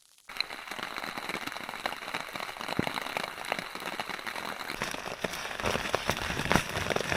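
Heavy rain falling, a dense patter of many separate drops striking over a steady hiss. It starts abruptly a moment in and builds a little louder toward the end.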